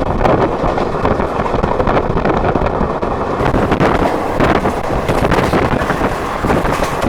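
Moving train running with a steady rumble, heavy wind buffeting the microphone at the open window. A faint high steady tone in the mix drops away about halfway through.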